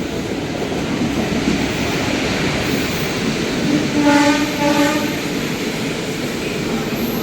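Express train running with a steady rumble of wheels on rail. Its horn sounds two short blasts about four seconds in.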